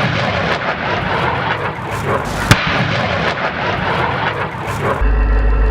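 Pantsir air-defence missile launch: a loud, steady rushing roar with a sharp crack about two and a half seconds in. It cuts off abruptly near the end and gives way to a steady electrical hum.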